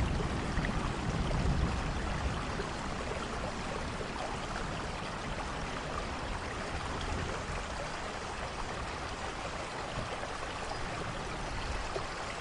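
Steady rain falling, with the low rumble of thunder dying away over the first second or two.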